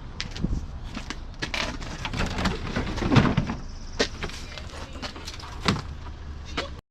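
Irregular knocks and clatter of scrap metal items being handled and loaded into a pickup truck bed, the loudest clunks about three seconds in, over a low outdoor rumble.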